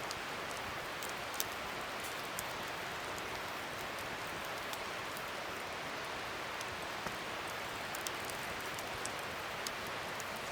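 Wood fire burning: a steady hiss of flames with scattered sharp crackles and pops from the burning wood.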